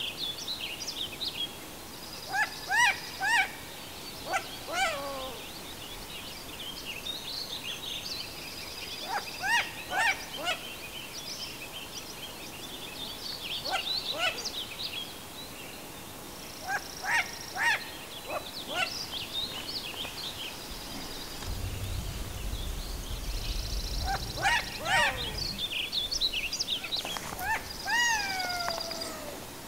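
Birds calling outdoors at dawn: loud, short calls come several times, often two or three in quick succession, and some fall in pitch. Many high songbird chirps and trills continue underneath.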